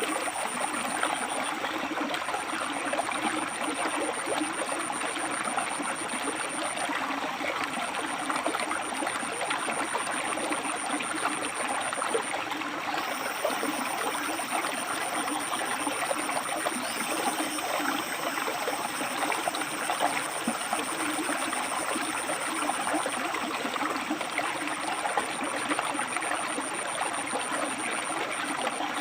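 River water rushing and burbling steadily over and between rocks. Behind it, a faint thin high whine comes and goes in stretches of a few seconds.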